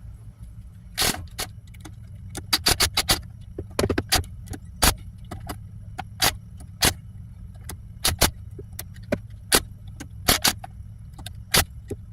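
Irregular sharp metallic clicks and taps of a hand tool working the screws of a water pump cover plate, some in quick clusters, as the screws are driven in and tightened in a star pattern over a new gasket. A steady low hum runs underneath.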